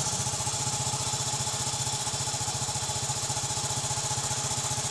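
Hero Passion Pro motorcycle's single-cylinder four-stroke engine idling steadily.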